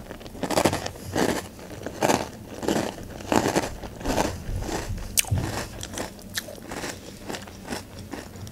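Close-up crunchy chewing of a mouthful of Nesquik Duo chocolate cereal balls in milk, with regular crunches about one and a half a second that get softer toward the end.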